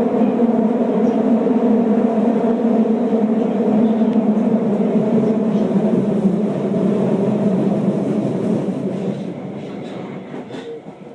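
Osaka Metro Midosuji Line 31 series subway train running at speed, heard from inside the car: a loud, steady rumble with a low hum from the running gear. The noise eases off over the last couple of seconds.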